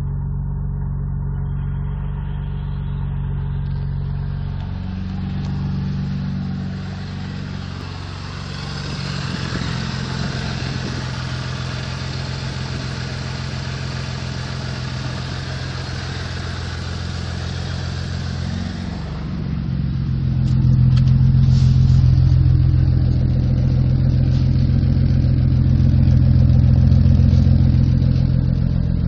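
Twin-turbo Mitsubishi 6G72 V6 running in a Mitsubishi Magna, steady at first, with a higher hiss over the engine from about seven seconds in until about nineteen, after which the engine grows louder and deeper for the rest.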